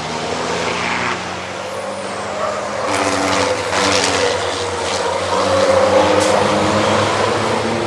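Racing trucks' diesel engines running on track, changing pitch as they pass, with several short hissing bursts of air release.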